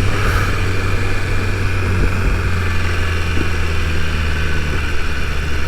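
BMW S1000RR's inline-four engine running at a steady, unchanging speed while riding.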